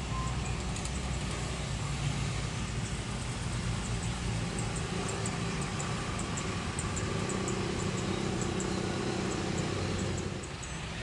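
Steady low engine rumble with a faint held tone, easing off slightly about ten seconds in.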